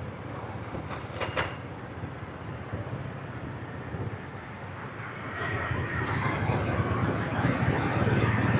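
Motorbike engine and surrounding street traffic: a steady low rumble with road and wind noise, growing louder about five seconds in.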